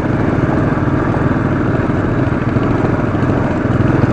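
Royal Enfield Classic 500 single-cylinder engine chugging steadily at low revs, pulling the bike up a steep climb in second gear.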